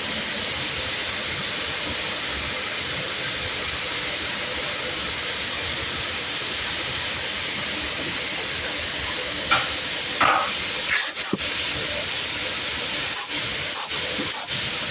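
Car wash high-pressure water spray, a steady hiss. A few short, louder sounds break in about ten seconds in and again near the end.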